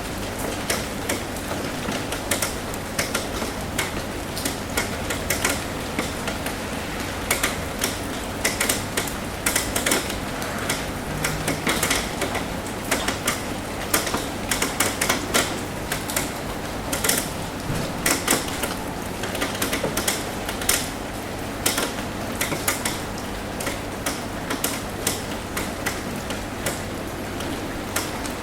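Rain tapping on a roof: many irregular sharp drips and taps over a steady hiss of rain, with a low steady hum underneath.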